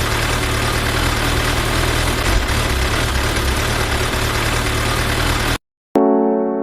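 A vehicle engine idling with a steady pulsing rumble that cuts off abruptly about five and a half seconds in; a piano chord starts just before the end.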